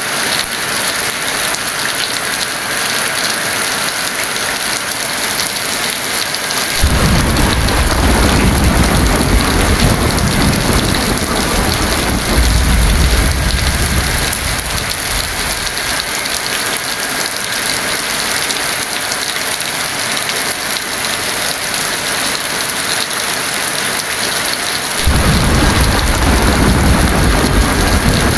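Heavy rain falling steadily, with two long rolls of thunder: one that comes in sharply about seven seconds in and rumbles for several seconds, and another that starts near the end.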